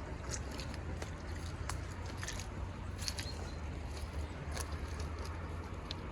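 Steady low wind rumble on the microphone, with scattered crisp clicks and crunches at irregular moments.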